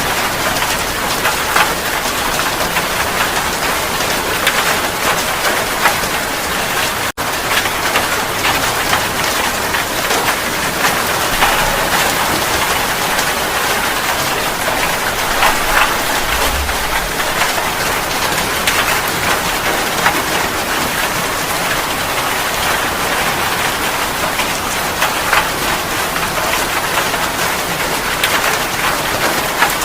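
Steady heavy rain falling on a surface: a dense, even hiss with individual drops spattering through it. The sound cuts out for a split second about seven seconds in, and there is a brief low thump about halfway through.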